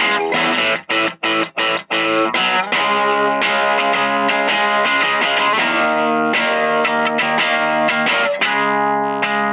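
Electric guitar on its bridge pickup played through a VOX Lil Night Train 2-watt all-tube amp set for a crunch tone. A run of short, choked chords for about two seconds, then held chords left ringing.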